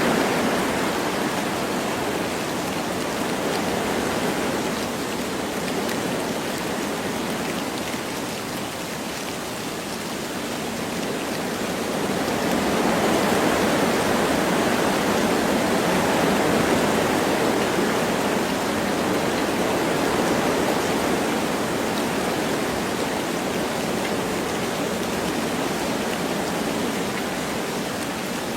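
Wind blowing through forest trees with light rain falling: a steady rushing noise that eases off about ten seconds in and then swells again.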